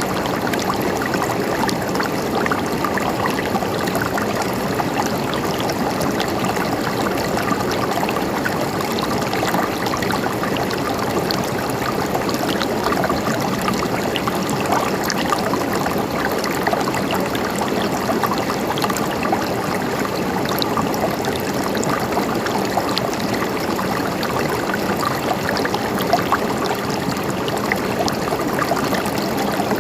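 A stream of water flowing and gurgling steadily, with many small splashes and trickles.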